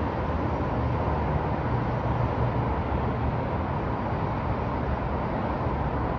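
Downtown city street ambience: a steady rumble of traffic, with a low engine hum that swells a little a second or two in.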